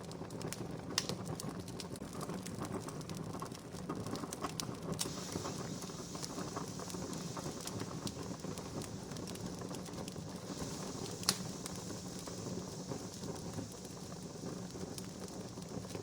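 Wood campfire burning with steady crackling and scattered pops, the sharpest a little after a second in and a louder single pop about eleven seconds in.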